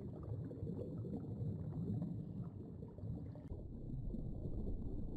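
Low, noisy sound effect with no clear pitch, standing in for a sea animal's sound; it changes about three and a half seconds in.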